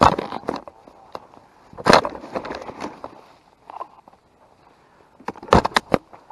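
Footsteps crunching through dry leaves and brush close to a head-mounted microphone, heard as irregular loud rustling crunches with small crackles between them: one near the start, one about two seconds in and a quick cluster near the end.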